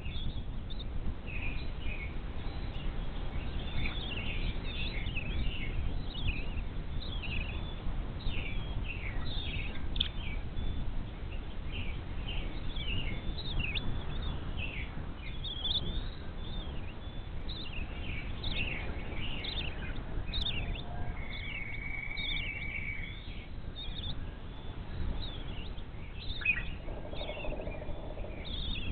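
Many short, high bird chirps and calls, coming every second or so, over a steady low rumble of background noise; about two-thirds of the way through one bird holds a single steady note for a couple of seconds.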